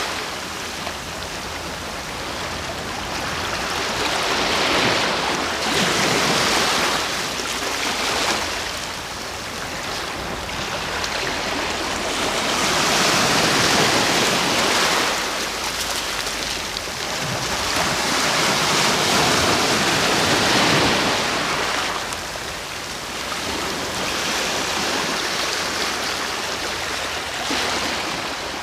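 Sea waves breaking on a shore, the surf swelling and washing back every few seconds in repeated surges.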